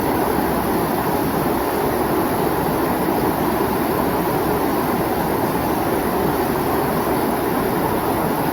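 Mountain stream water rushing over rocks in a steady, unbroken flow.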